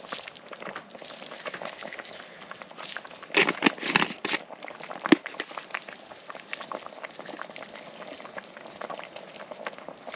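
Creamy chicken stroganoff sauce simmering in a pan, with a steady crackle of small bubbles popping. A few louder bursts come about three and a half to four seconds in, and a sharp click a second later.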